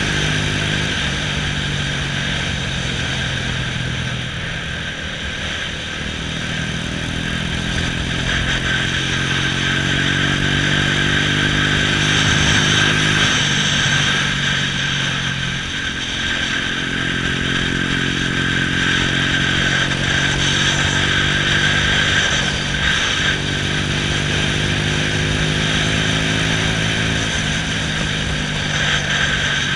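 Honda Astrea single-cylinder four-stroke motorcycle engine running under way, heard from the bike itself. Its pitch climbs and falls several times as the rider speeds up and eases off through bends, over a steady rush of wind and road noise.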